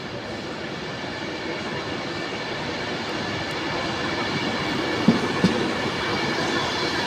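Train pulling into a station, its rumble growing steadily louder with faint steady high tones over it; about five seconds in, the wheels begin clicking over rail joints, twice in quick succession.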